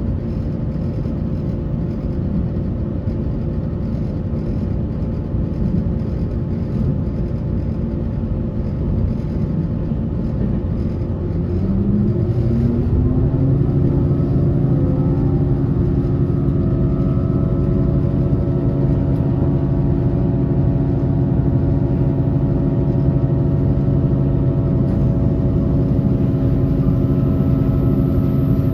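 Passenger train running, heard from on board: a steady rolling rumble. About twelve seconds in, a humming motor tone rises in pitch, gets louder and then holds steady.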